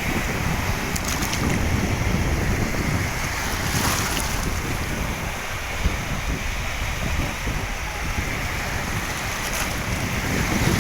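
Wind buffeting the microphone, a heavy low rumble over a steady rushing noise, with a few brief gusty crackles.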